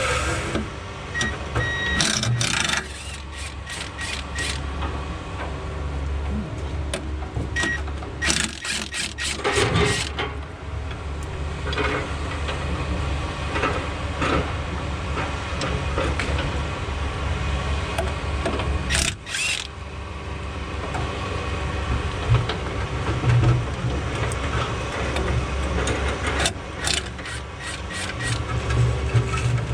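Hand tools and metal parts clinking and knocking as a machine's cover is worked off, over a steady low engine hum.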